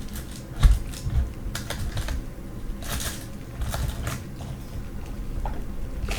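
Irregular light clicks and taps, with a few dull thumps, from small items and packaging being handled on a tabletop.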